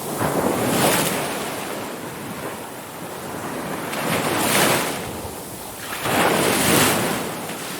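Ocean waves breaking and washing on a shore, the surf swelling in rushes about a second in, about four and a half seconds in, and again around six and a half seconds in, easing between.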